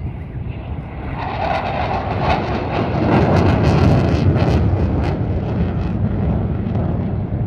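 Eurofighter Typhoon jet engines passing close during a flying display: a loud, rushing noise that builds to its loudest about three to four seconds in, with a crackling edge, then eases slightly.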